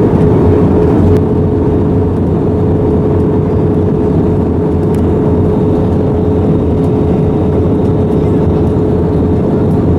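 Airliner cabin noise in flight: a steady, loud rush of engine and airflow noise with a constant mid-pitched hum running through it.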